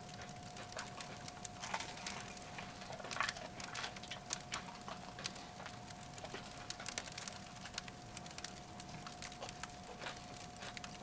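Firewood crackling in a titanium wood stove: irregular small pops and snaps, a few sharper ones, over a faint steady tone.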